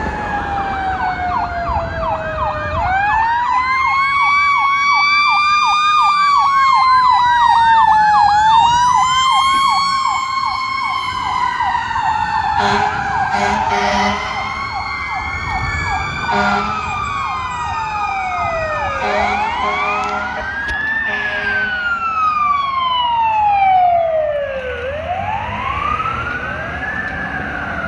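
Fire apparatus sirens sounding on an emergency response. A wail rises and falls slowly over several seconds while a faster warbling siren overlaps it, and short blasts of an air horn break in several times in the second half.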